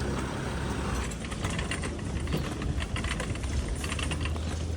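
Vehicle engine running with a steady low rumble, with scattered light rattles and clicks from about a second in.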